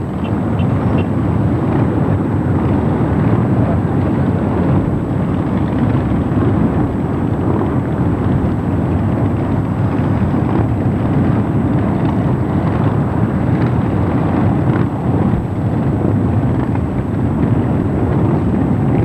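Steady, loud, continuous rumble of many motorcycles riding past in a procession.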